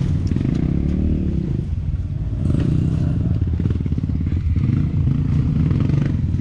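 Dirt bike engine running and revving, its pitch rising and falling several times, with a dip about two seconds in and some light clatter.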